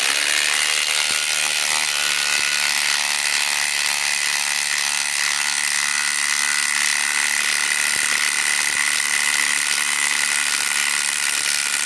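Milwaukee M18 Fuel Gen 4 impact driver (2953-20) hammering steadily without a break while driving a 10-inch lag screw into a pre-drilled hole. The lag is barely advancing because the tool is at the limit of what it can drive.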